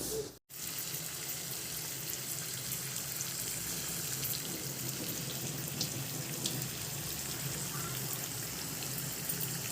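Chicken curry sizzling in a pan: a steady hiss with a few faint crackles, starting just after a brief dropout near the start.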